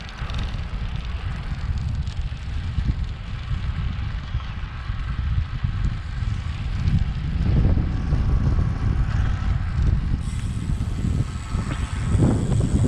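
Wind buffeting the microphone of a moving bicycle as it is ridden into a gusty wind: a rough, low rumble that rises and falls, swelling about halfway through and again near the end.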